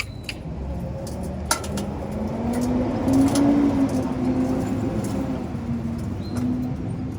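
A motor vehicle engine running, its pitch climbing over the first few seconds and then easing back a little, over a low rumble. A few light metallic clinks of tools near the start and about a second and a half in.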